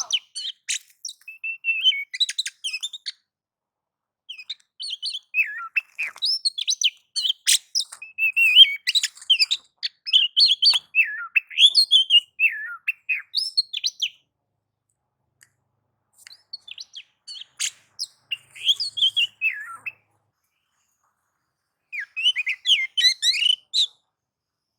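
Oriental magpie-robin (kacer) singing its agitated fighting-mode song: fast, varied runs of chirps and whistles in three bursts, with pauses about 14 and 21 seconds in.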